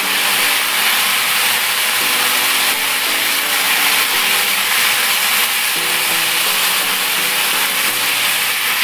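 Sliced onions and peppers sizzling steadily in a hot frying pan while being stirred with a spatula. Quiet background music plays underneath.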